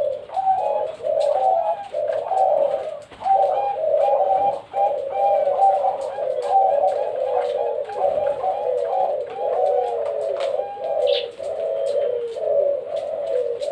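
Many zebra doves (Bangkok-type perkutut) cooing at once: a dense, unbroken chorus of overlapping coos. A single higher chirp cuts in about eleven seconds in.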